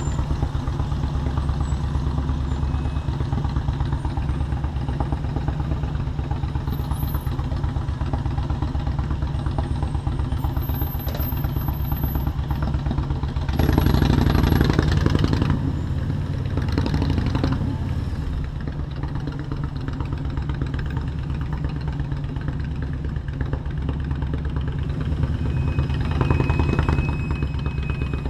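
Motorcycle engine running steadily while riding through city traffic, with two louder stretches of engine and road noise, about halfway through and near the end.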